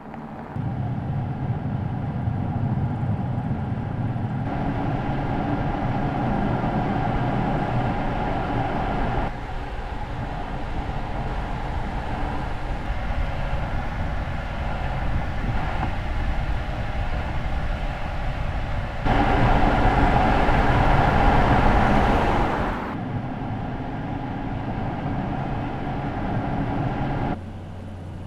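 Car driving on the road: steady tyre and road rumble with wind noise. The level and tone shift abruptly several times, loudest for a few seconds about two-thirds of the way in.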